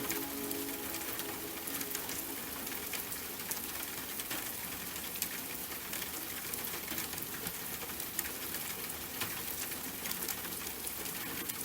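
Steady rain, an even hiss with many close, crisp drops ticking on a hard surface.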